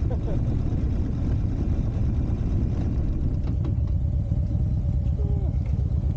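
Buell Firebolt XB12R's air-cooled V-twin engine running with a steady low rumble.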